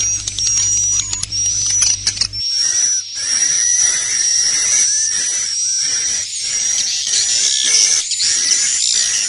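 Recorded swiftlet calls: a dense chorus of high chirping and twittering over rapid clicking, the 'inap' roosting call that swiftlet farmers play inside a swiftlet house to get the birds to settle. A low hum under it stops about two and a half seconds in.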